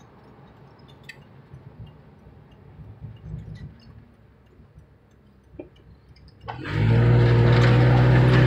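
Quiet road noise inside a moving car with a few faint ticks, then about six and a half seconds in a loud car engine comes in suddenly and holds, its pitch creeping slowly upward as it accelerates.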